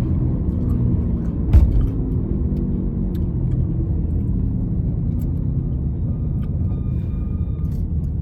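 Car driving, heard from inside the cabin: steady low road and engine rumble, with a single sharp knock about a second and a half in.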